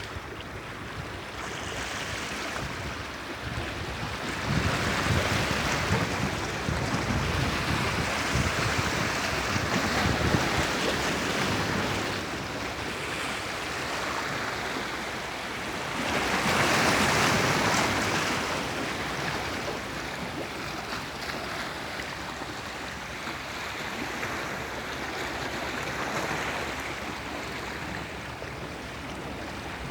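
Sea surf: waves breaking and washing in and out in slow swells, the loudest wave about halfway through.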